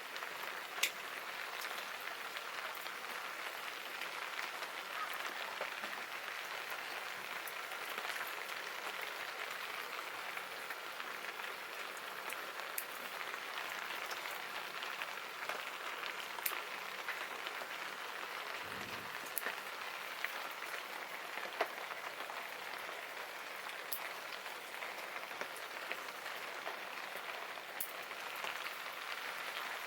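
Steady rain falling, an even hiss with a scattering of sharp single ticks every few seconds.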